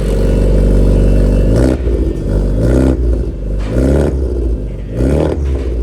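Honda Civic Type R FL5's turbocharged four-cylinder engine through a straight-pipe exhaust, held at a steady raised rev, then blipped four times, each rev rising and dropping back about once a second.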